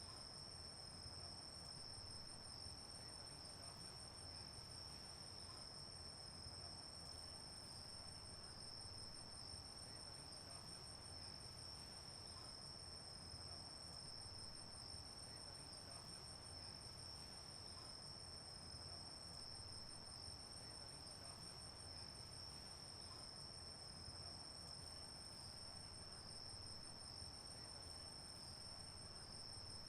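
Insects, crickets by the sound of it, trilling steadily at two high pitches, the higher one pulsing rapidly, over a faint even background hiss.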